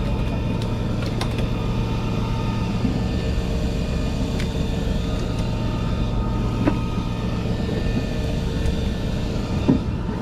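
Fishing boat's engine running with a steady low hum, with a few faint ticks.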